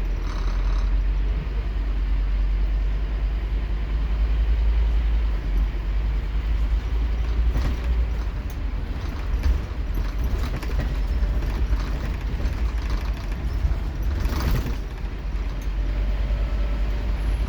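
Scania K230UB Omnilink bus's five-cylinder diesel engine running under way, a steady deep rumble with rattles. A short burst of hiss comes about fourteen seconds in.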